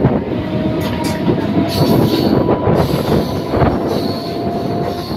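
A train running along the track, heard from on board: a steady loud rumble with irregular wheel clatter and a thin, faint squealing tone from the wheels.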